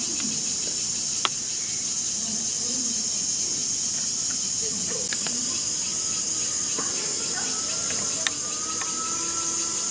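Steady high-pitched drone of insects, with faint distant voices murmuring underneath and a couple of sharp clicks.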